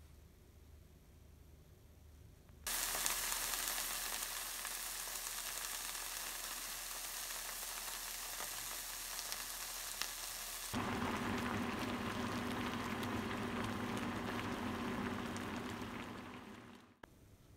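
Tofu and egg sizzling as they pan-fry, starting about three seconds in. After a cut partway through, tteokbokki sauce bubbling and sizzling in a pan, with a steady low hum underneath, fading out near the end.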